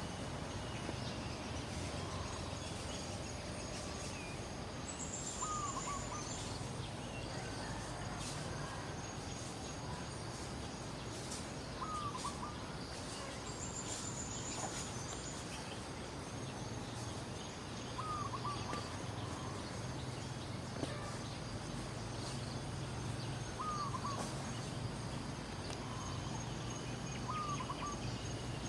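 Outdoor ambience over a steady hiss, with a short call from a bird repeating about every six seconds and a couple of brief high chirps.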